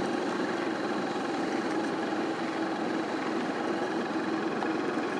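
A steady motor hum, even and unchanging, with a constant low tone.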